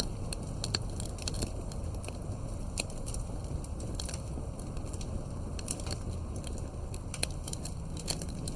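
Campfire crackling: irregular sharp pops and snaps, several a second, over a steady low rumble of burning wood.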